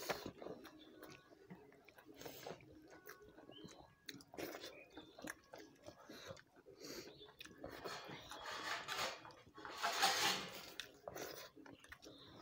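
Close-up chewing and mouth sounds of people eating rice and chicken curry by hand, with many small clicks, loudest for a couple of seconds about two-thirds of the way through.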